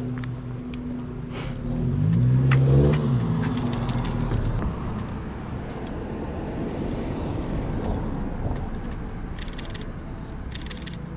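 A car engine hums steadily, then revs up and drops back about two seconds in. A steady rush of outdoor noise follows.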